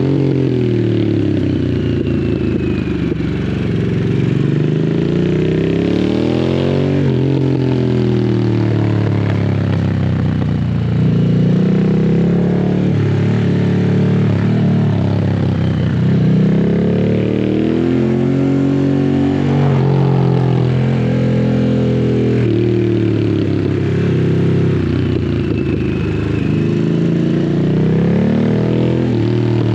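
Harley-Davidson Sportster S V-twin through a custom slip-on exhaust, ridden at low revs on a winding road. Its pitch climbs as the throttle opens and falls away as it rolls off, over and over, about every five seconds.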